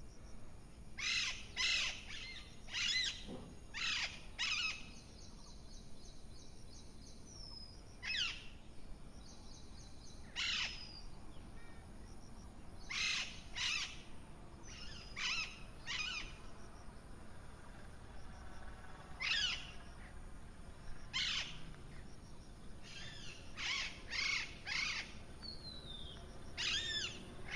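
Parrot calling in short, loud squawks, some single and some in quick runs of two to five, with pauses of a few seconds between.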